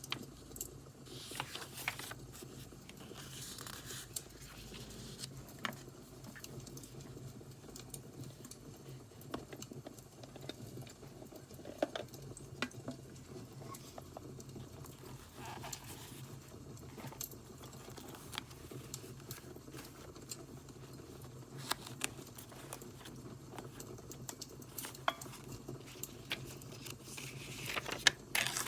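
Crackling wood fire with scattered sharp pops, mixed with the soft rustle and tap of paper and stationery being handled.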